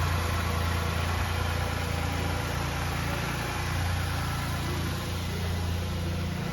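2018 Lexus RX350's 3.5-litre V6 engine idling steadily during an engine test.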